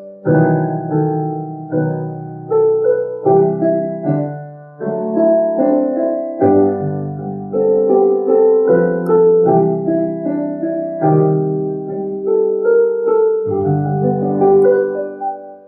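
Piano playing a slow hymn-like melody over struck chords, a new chord every second or so; the last chord fades away near the end.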